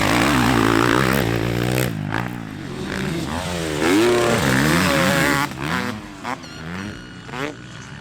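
Several motocross bikes racing past, their engines revving up and down as they shift and throttle. It is loud for the first five seconds or so, then drops away to fainter, more distant revving.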